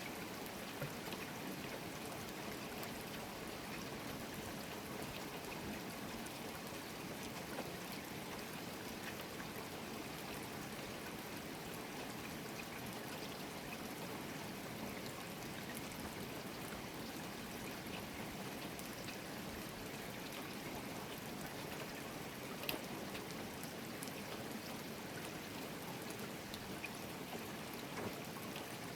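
Steady rain falling, with water running and trickling and scattered drops ticking on hard surfaces, one sharper drop about two-thirds of the way through.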